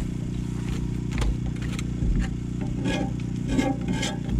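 A steady low mechanical hum, engine-like, with scattered scrapes and clicks of cookware being handled over it.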